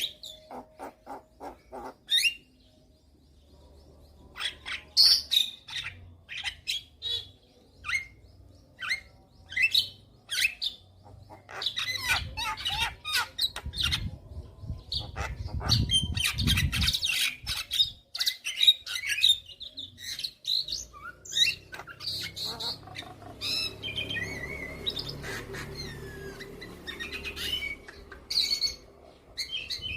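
Javan myna singing: a varied run of sharp chirps, squawks and chatter, with quick series of short clicks near the start and denser chattering song in the second half.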